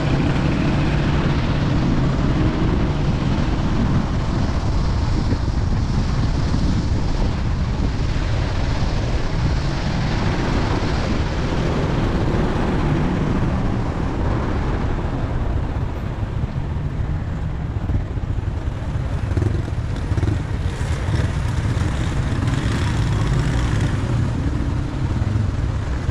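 Steady engine and road noise of a moving vehicle, a continuous low rumble with an even hiss above it.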